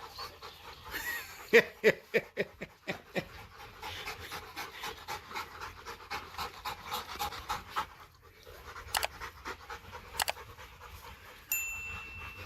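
Rottweiler panting rapidly and steadily, with a few sharp knocks and clicks along the way and a steady high beep-like tone near the end.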